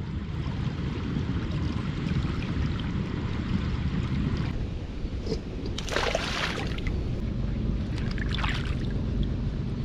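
Outdoor ambience: a steady low rumble with two brief hissing rustles, about six and about eight seconds in.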